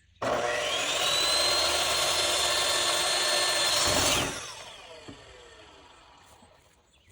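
Electric power saw starting with a rising whine and running through a cut in a 2x4 board for about four seconds, then released, its blade coasting down with a falling whine.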